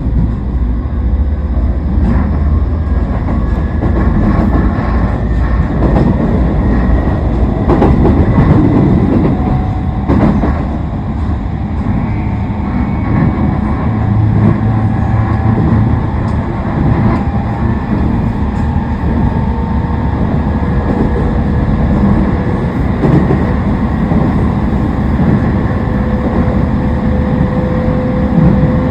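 Toei 10-300 series electric train running, heard from inside the car: rumble of wheels on rail with a few sharp knocks, over the whine of its Mitsubishi IGBT-VVVF traction inverter, whose tones glide in pitch. Near the end a steady tone holds.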